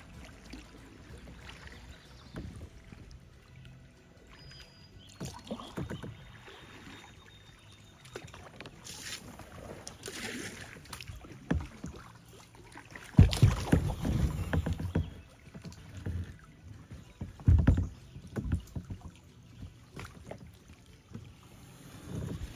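Kayak on the water: paddle strokes and splashing, with a few loud thumps and knocks near the middle.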